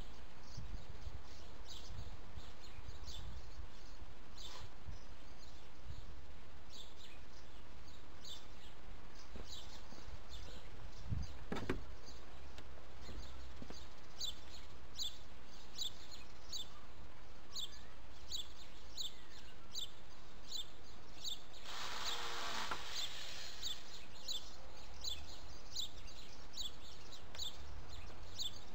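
Outdoor background noise: a low steady rumble, with a small bird repeating a short high chirp over and over, about once or twice a second. A brief rushing noise lasts about a second, some 22 seconds in.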